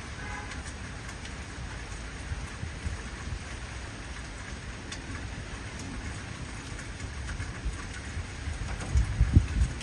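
Heavy rain falling in a steady hiss, with the low rumble of thunder building near the end.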